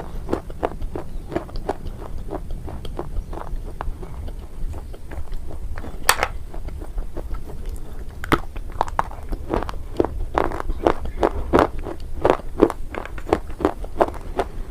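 Close-miked chewing and crunching of a hard, brittle mineral item being eaten, several crunches a second, with sharper snaps of biting off pieces, the loudest about six seconds in and again about eight seconds in.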